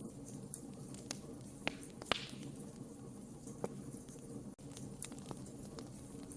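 Wood fire crackling in a fireplace: irregular sharp pops and snaps over a steady low rush of burning flames, the loudest pop about two seconds in.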